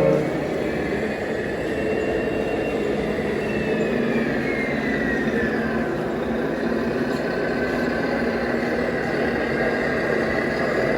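Radio-controlled model trucks driving: a steady motor and drive noise with a faint whine that falls in pitch about midway, after a brief louder knock at the very start.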